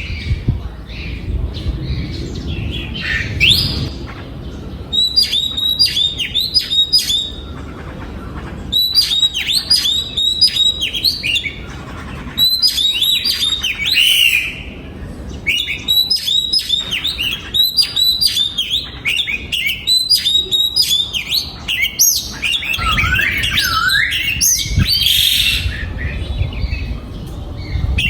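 Oriental magpie-robin singing: phrases of quick, high repeated notes broken by short pauses.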